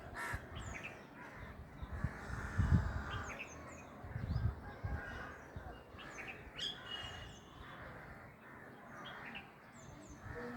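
Bird chirping: many short, high chirps that fall in pitch, scattered throughout, with a few low thumps in the middle.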